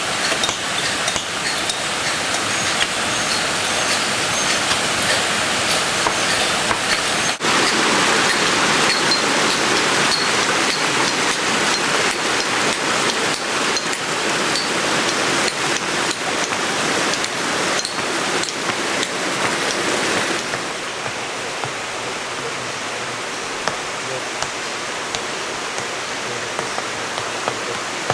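Waterfall falling about 50 m through a rocky slot: a steady, loud rush of water. The sound shifts abruptly a third of the way in and drops a little in level about two-thirds through.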